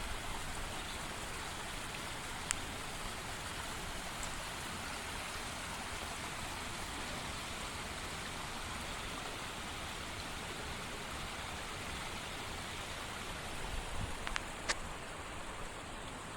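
Steady rush of a flowing woodland brook, with a few sharp clicks about two and a half seconds in and twice near the end.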